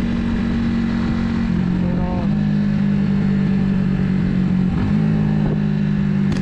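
Italika 250Z motorcycle engine running steadily under way, with its pitch shifting briefly twice.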